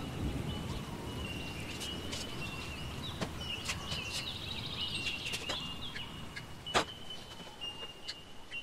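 Garden hose being handled and dragged on a tiled floor: a soft rustle with a few sharp knocks, the loudest about seven seconds in. A thin, high whistle-like tone comes and goes throughout.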